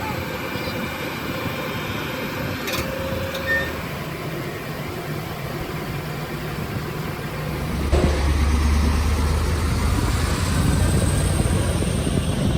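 A heavy vehicle's diesel engine running steadily, its low rumble growing louder and deeper about eight seconds in as it comes under load.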